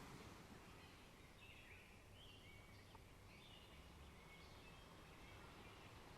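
Quiet forest ambience: a faint, steady background hiss with small birds chirping softly. Some short chirps slide in pitch, clustered from about a second and a half in to about five seconds in.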